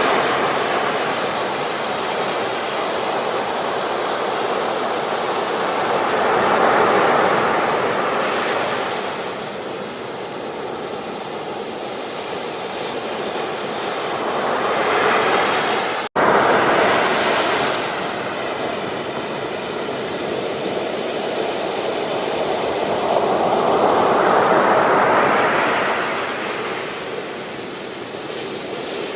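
Ocean waves breaking on a beach, the surf rising and falling in slow surges every eight or nine seconds. A momentary dropout cuts the sound a little past halfway.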